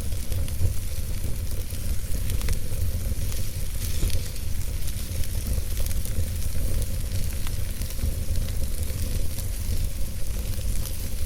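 Wood fire burning in a fireplace: a steady hiss and low rumble with frequent small, irregular crackles and pops.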